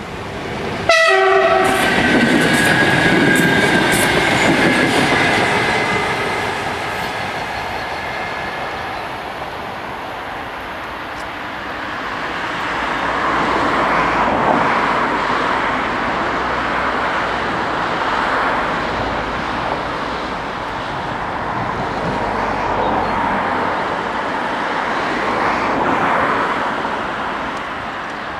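An NMBS MS66 electric multiple unit sounds its horn about a second in, a sudden multi-tone blast that lingers for several seconds. The train then runs past with steady rail rumble that swells and fades.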